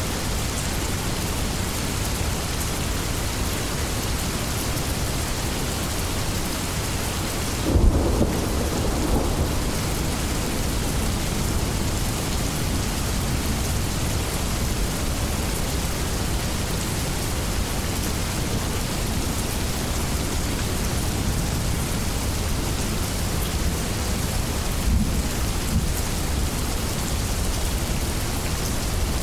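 Steady heavy rain, with a sudden clap of thunder about eight seconds in rumbling for a couple of seconds, and a softer rumble of thunder near the end.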